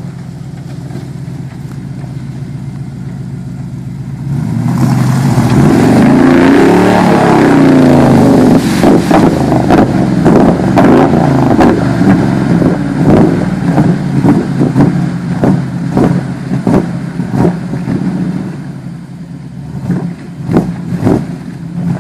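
Small-block V8 of a lifted mud truck running steadily, then revved hard about four seconds in, its pitch rising and falling as it is driven through mud. Through the second half come repeated sharp knocks and clatter, thinning out briefly near the end.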